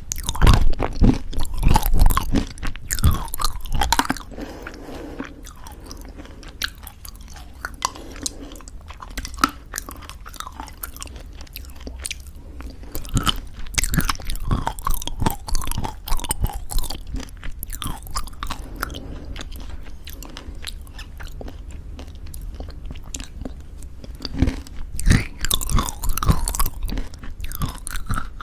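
Close-miked chewing of crunchy homemade granola in thick yogurt: dense crisp crunches and wet chewing, heaviest at the start and again near the end, softer in between.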